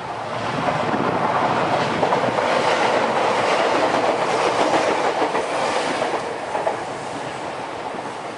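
A train passing over a level crossing, its noise building about a second in, loudest through the middle and dying away near the end.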